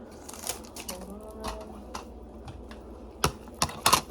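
A series of sharp clicks and taps from small test supplies being handled on a counter: a few scattered ones early and a quick cluster of about four louder ones near the end.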